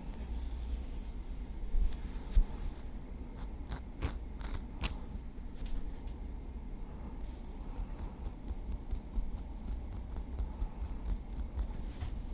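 Small wooden stick tapped and scratched lightly: irregular crisp taps, bunching about three to five seconds in and again through the second half, over a low rumble.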